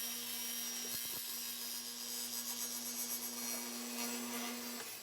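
Delta table saw running, its Forrest Woodworker II thin-kerf blade raised up through the plywood-and-laminate zero clearance insert to cut out the blade slot. A steady motor hum that stops near the end.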